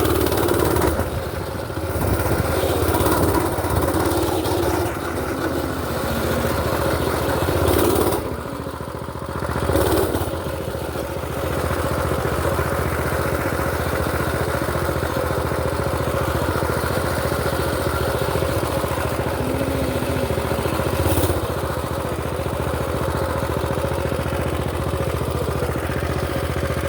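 A mini bike's small pull-start engine runs steadily while being ridden, its loudness swelling a few times as the throttle opens, notably near the start and about a third of the way in.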